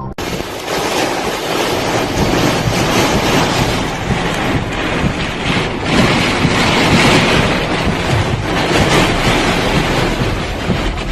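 Storm-force wind from Hurricane Ophelia buffeting the microphone: a loud, even rush of noise that swells and eases with the gusts.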